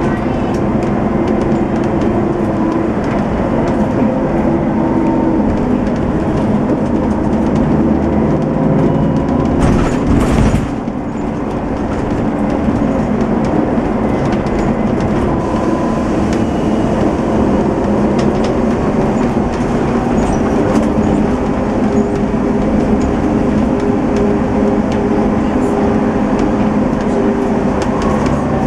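Diesel engine of a Setra S 431 DT-L double-decker coach with a manual gearbox, running steadily under way. About ten seconds in there is a short noisy burst, then a brief dip in loudness before the engine note picks up again.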